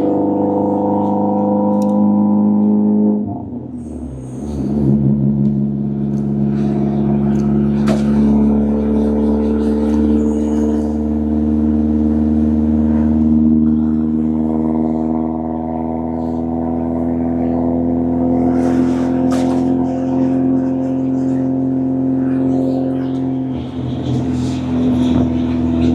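Mercedes-AMG CLS 63 S twin-turbo V8 engine droning steadily under way, its pitch slowly climbing. The note breaks and drops briefly about three seconds in and again near the end.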